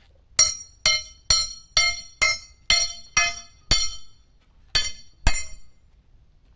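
A hammer striking a steel plate ten times, about two blows a second with a short pause before the last two. Each blow rings out metallically.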